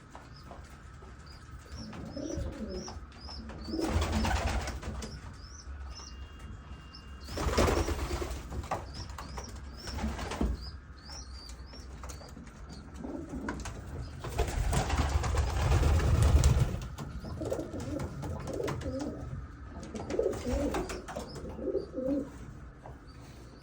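Domestic pigeons cooing in low, wavering bursts, with several louder rushes of noise and faint repeated high chirps from small birds.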